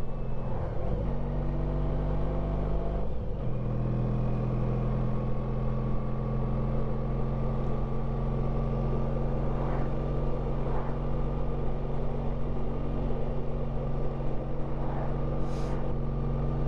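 Honda ST1300 Pan European's V4 engine running steadily under way, with road and wind noise. The engine note dips and shifts pitch twice in the first few seconds, as with gear changes.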